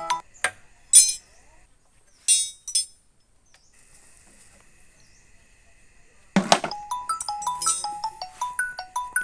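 Mobile phone ringtone playing a stepped melody. It breaks off just after the start, leaving a few metallic clinks of tools. A sharp clack about six and a half seconds in is followed by the tune starting again.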